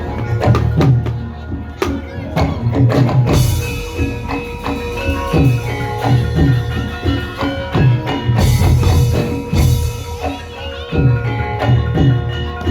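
Javanese gamelan music of the kind played for lengger dance: rapid drum strokes over ringing, sustained metallophone notes, with a crash-like hiss about a third of the way in and again around two-thirds.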